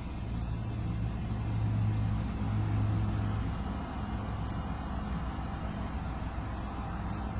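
Low rumble of distant road traffic swelling and fading over the first few seconds, under a steady hiss. A thin high-pitched whine from the camera's hard drive runs throughout and changes pitch for a few seconds in the middle.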